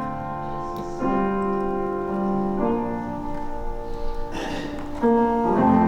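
Piano-style keyboard playing slow held chords that change every second or two, getting louder about five seconds in: the instrumental introduction to a worship song.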